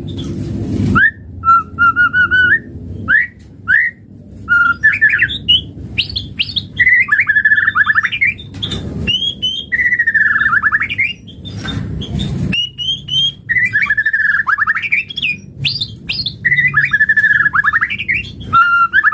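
White-rumped shama (murai batu) singing: a steady run of varied phrases, quick whistled glides mixed with harsh, buzzy chatter, one after another with short pauses between them.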